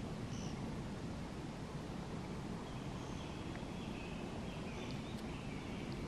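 Faint, high bird chirps now and then over a steady low background rumble, with a couple of sharp ticks near the end.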